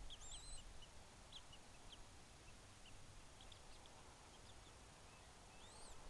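Faint, high-pitched bird chirps: a few short arched calls that rise and fall just after the start and again near the end, with scattered thin chips between them, over a quiet outdoor background.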